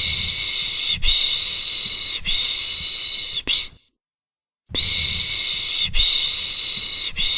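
A person shushing a baby to sleep with a rhythmic 'shh-shh-shh-shh': four long shushes of about a second each in a row, a pause of about a second, then another run of shushes beginning.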